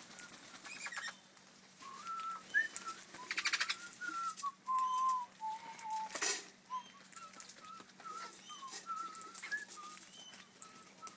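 Australian king parrots giving repeated thin, piping whistles: short notes and some longer held ones that step down in pitch. About three and a half seconds in comes a quick rattle of wing flaps, and about six seconds in a brief rustle.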